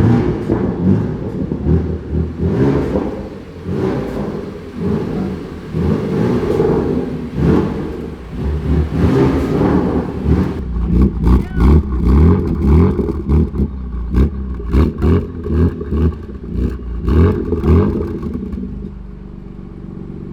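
BMW M2 Competition's twin-turbo straight-six being revved repeatedly through a new Active Autowerke aftermarket exhaust. The revs rise and fall, then come in quick blips about twice a second with sharp crackles, before it settles to a steady idle near the end.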